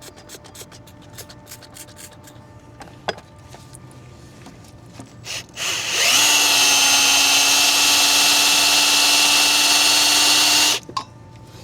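Power drill with a polishing attachment, working on a truck wheel. It spins up about halfway through, runs steadily for about five seconds, then stops. Before it starts there is only faint ticking and rubbing.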